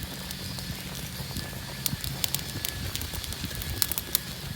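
Fire burning in a small tabletop fire pit, crackling, with a run of sharp pops in the second half.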